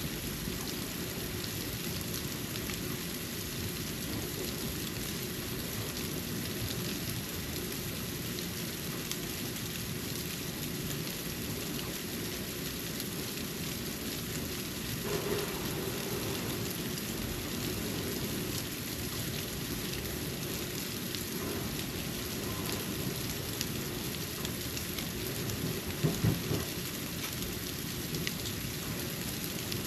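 Snow falling around a porch: a steady hiss sprinkled with many small ticks of flakes landing, with a couple of low thumps about halfway through and again near the end.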